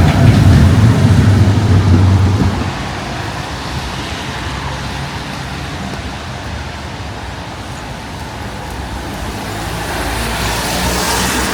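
Street traffic passing close by: a vehicle engine is loud for the first couple of seconds, then drops away into steady traffic noise. Another vehicle comes closer near the end.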